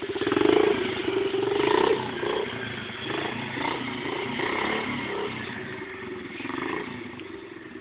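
Small 50cc pit bike engine revving hard, loudest in the first two seconds, then running on rougher and fading away.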